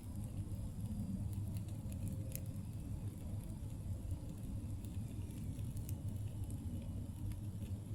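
Campfire burning: scattered sharp crackles and pops from the wood over a steady low rumble, with a louder pop about two and a half seconds in and another near six seconds.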